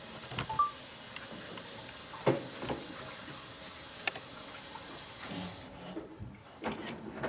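A steady hiss with a few light clicks, cutting off suddenly near the end.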